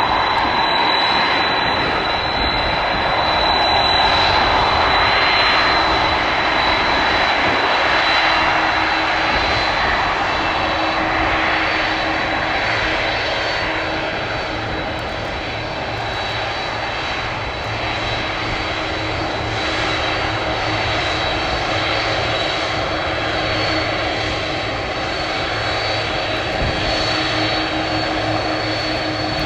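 Jet airliner engines running: a steady rush of noise with a high whine and a low hum, easing off slightly partway through.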